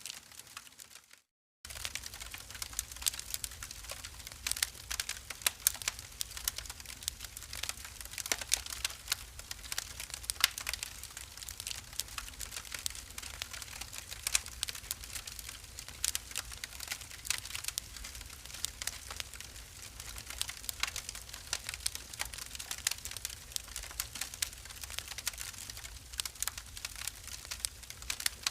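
Wood fire in a fireplace crackling, with a dense run of irregular sharp pops and snaps over a steady low rumble. The sound cuts out completely for about half a second just over a second in, then the crackling resumes.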